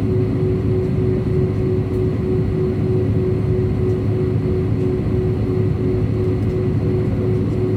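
Airbus A319 cabin noise: a steady rumble of the engines and airflow with a constant hum over it, unchanging throughout.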